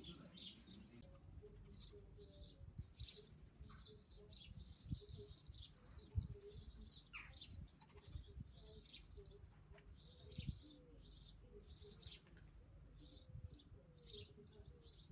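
Common swifts screaming in flight: many short, shrill, high-pitched calls, crowded together in the first six seconds, then sparser and fainter.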